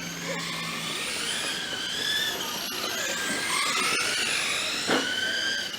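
Several radio-controlled race trucks' motors whining together, each pitch rising and falling as the trucks speed up and slow down around the track.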